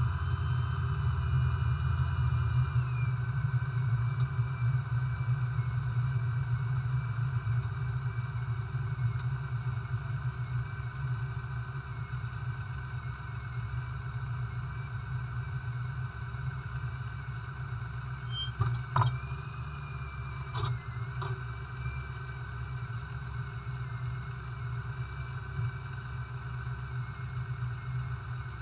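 A car engine idling steadily. Its pitch and level drop a little about three seconds in, and a few short clicks come about two-thirds of the way through.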